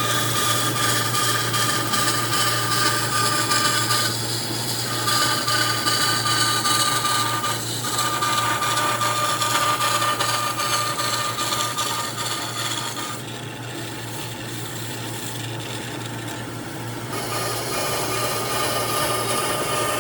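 Electric power tool working wood: a steady motor whine over rasping noise. It eases briefly twice in the first half, and the whine and rasp drop away for a few seconds past the middle before it returns.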